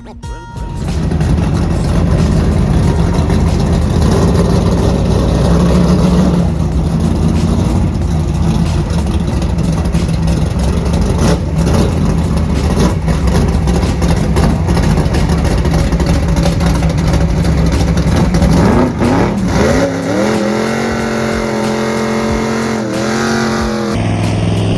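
Car engine running hard at full throttle, a drag-strip run, with the pitch rising late on and then holding steady.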